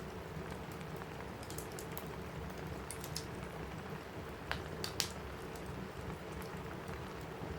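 Steady rain on a cabin roof with a crackling wood fire: a constant rain hiss broken by scattered sharp crackles, two louder ones about halfway through.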